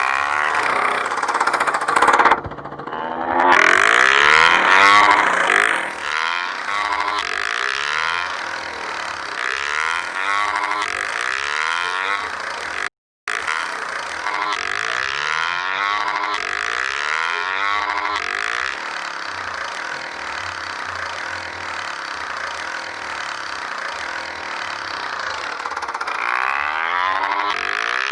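Motorcycle on the move: steady road and wind noise over the engine running, with a brief dropout about halfway through.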